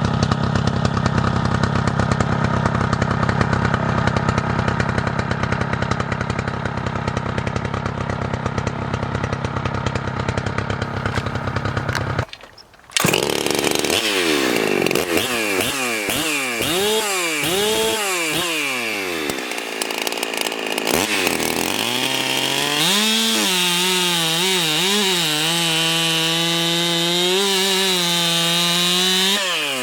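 Ported big-bore Husqvarna 372XP two-stroke chainsaw idling steadily. After a brief break about twelve seconds in, it is revved in a series of throttle blips that rise and fall. It is then held at high revs, its pitch wavering slightly.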